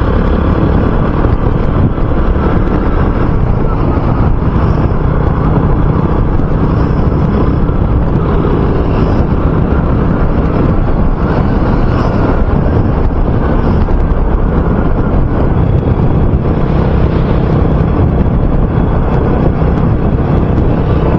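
RUSI Classic 250 motorcycle engine running at a steady cruise, with wind rushing over the microphone.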